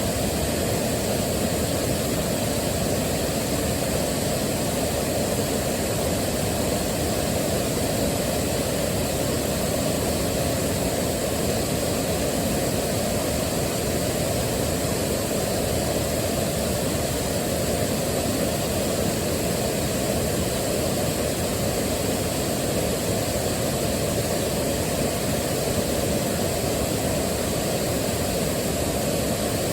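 Waterfall rushing in a steady, even roar of falling water, deep and unchanging throughout.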